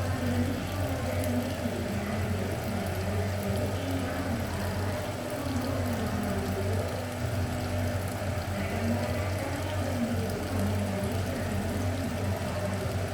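Steady low hum with an even hiss.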